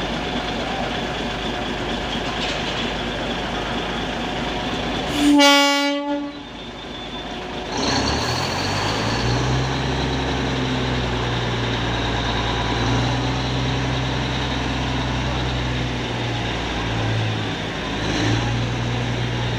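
Diesel locomotive running steadily; about five seconds in its horn gives one short blast. A couple of seconds later the engine note changes to a louder, deep steady drone that holds to the end.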